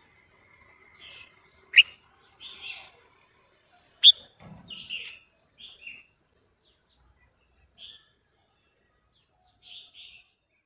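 Female red-whiskered bulbul calling in a series of short chirps, with two sharp, loud calls about two and four seconds in.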